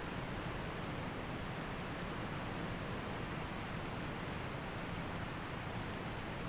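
Waterfall water rushing steadily, a constant even roar of falling and running water.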